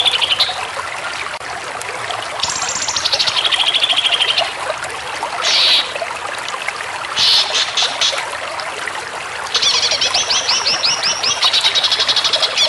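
Cucak ijo (green leafbird) singing in several rapid, buzzy trilled phrases, some starting high and dropping in pitch, the longest one near the end, over a steady trickle of running water.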